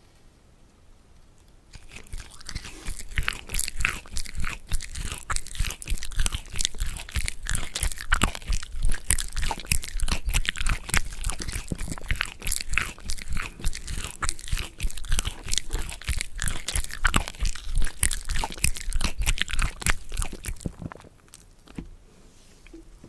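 Close-miked crunchy chewing: a person biting and chewing crisp food in a dense run of sharp crunches, starting about two seconds in and stopping near the end.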